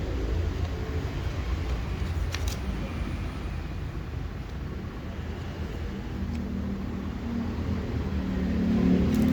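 Low steady rumble of a motor vehicle, with a pitched hum growing louder in the last few seconds.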